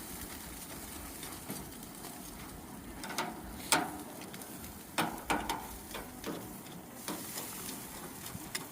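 Goat meat and chicken skewers sizzling on a very hot grill, a steady hiss broken by a few sharp clicks and knocks, the loudest about three and a half seconds in.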